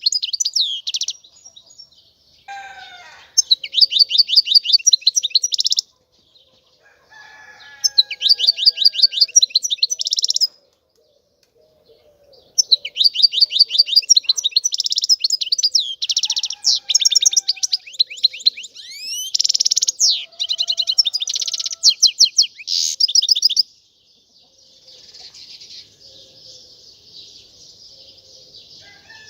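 European goldfinch singing: several bursts of rapid, high trilled and twittering notes separated by short pauses, with one long unbroken run of about ten seconds, then softer twittering near the end.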